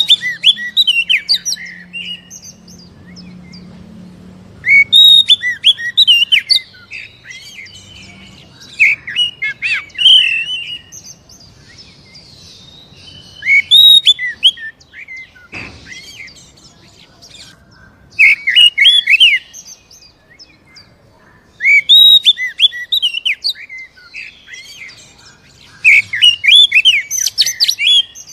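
Oriental magpie-robin (kacer) singing in repeated loud bursts of rapid, varied chirps and whistles, each burst a second or two long, coming about every four seconds. It is a lure recording for stirring caged kacer to sing.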